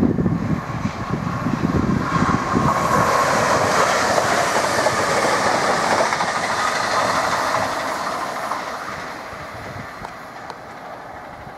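Chiltern Railways diesel multiple unit train passing at speed. The wheel and rail noise builds over the first couple of seconds, stays loud for several seconds, then fades away after about eight seconds.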